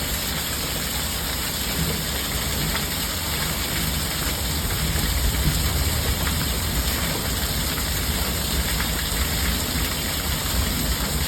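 Heavy rain pouring down steadily in a thunderstorm, with a deep continuous rumble underneath.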